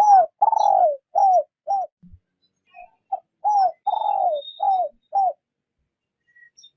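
A decoy spotted dove cooing in two phrases of about five coos each, each coo sliding down in pitch, with a pause of about a second between the phrases. Faint high chirps of small birds are heard behind it.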